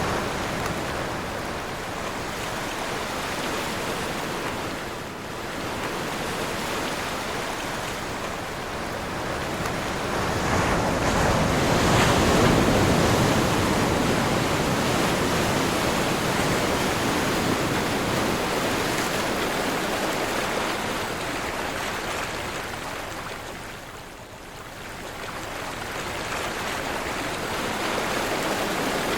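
Ocean surf with wind: waves breaking and washing in, the rush swelling and ebbing over several seconds, loudest about twelve seconds in, with a brief lull near the end.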